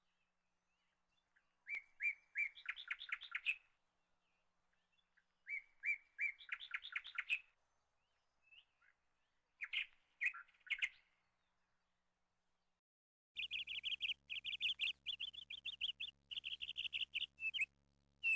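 A small bird chirping in short bursts of rapid chirps, three times, then a denser, steadier run of chirps from about 13 seconds in, over a faint low hum.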